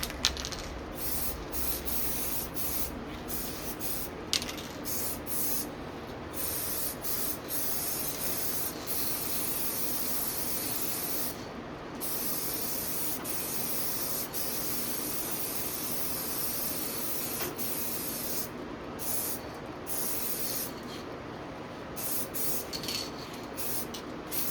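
Aerosol spray paint can hissing in a series of long passes, stopping briefly now and then between them.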